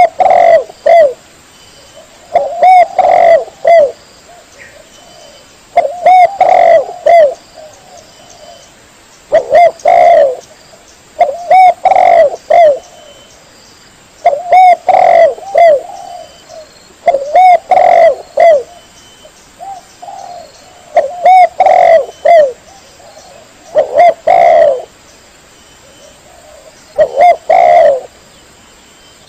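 Spotted dove (tekukur) cooing: short phrases of several low coos, repeated about every three to four seconds.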